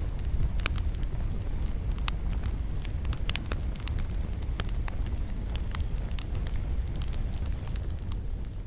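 Wood fire burning in a fireplace, with a steady low rumble of flame and frequent sharp, irregular crackles and pops.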